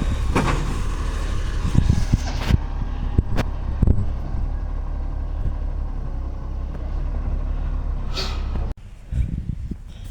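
Garbage truck's diesel engine running steadily, with a few knocks and a short hiss of air about eight seconds in. The truck has an exhaust leak. The sound drops off sharply near the end.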